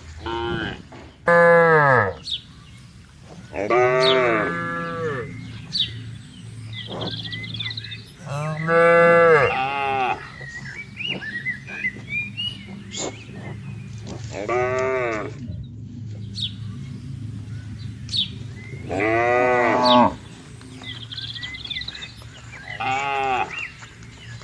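Cattle mooing repeatedly: about seven long calls a few seconds apart, over a steady low hum.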